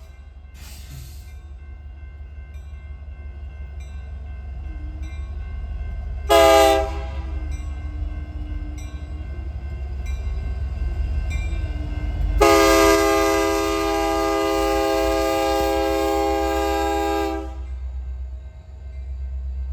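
Diesel locomotive's multi-chime air horn: a faint short toot about a second in, a short blast about six seconds in, then a long blast of about five seconds, over a steady low rumble of the passing train.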